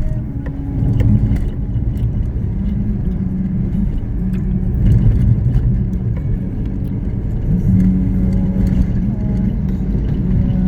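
A motor vehicle driving along a road: steady engine and road rumble.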